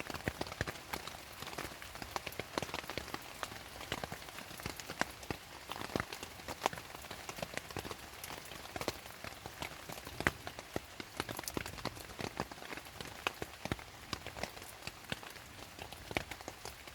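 Rain falling, with many separate drops tapping irregularly on a nearby surface over a steady hiss of rainfall.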